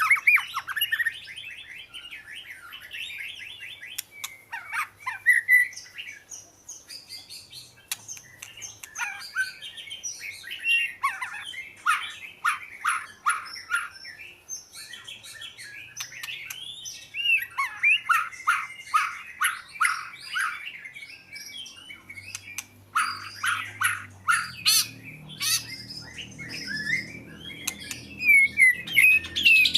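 Oriental magpie-robin singing a varied song of whistles, slurred notes and harsh chatters. Twice it breaks into a quick run of repeated notes, about five a second.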